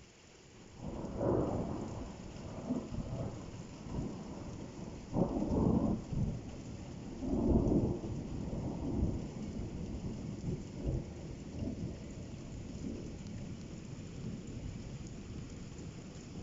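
A thunderclap rolls in about a second in as a long rumble, swelling loud several times and then trailing off, over the steady hiss of falling rain.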